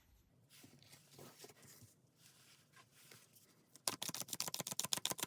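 Tarot cards being handled: faint rustling, then a fast run of card clicks, about ten a second, starting near the end, as the deck is shuffled.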